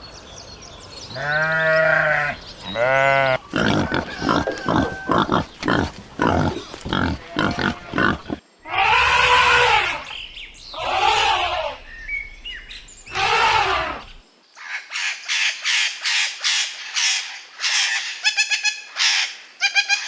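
A run of different animal calls. First sheep bleat twice, then come quick repeated grunts. Around the middle an elephant trumpets three times, and near the end there are rapid high squawking bird calls.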